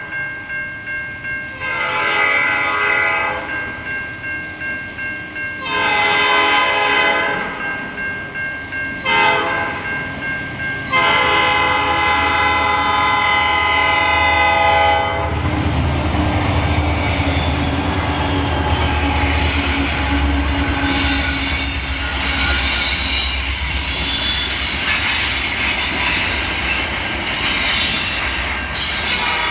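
Freight locomotive horn sounding the grade-crossing signal: long, long, short, long, with the last blast held about four seconds. The locomotives then pass with a low engine rumble, followed by the freight cars rolling by with high-pitched wheel squeal and clatter.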